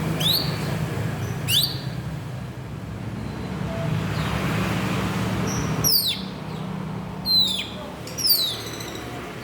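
Green leafbird (cucak ijo) calling: short, sharp whistled notes that sweep steeply down, about five of them, one near the start, another a second and a half in, then a cluster in the second half. A steady low hum of traffic runs underneath.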